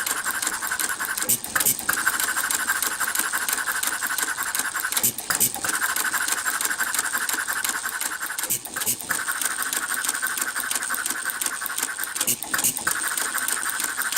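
Half-scale model Economy hit-and-miss gas engine running, a fast steady clatter with a brief break in the sound about every three and a half seconds.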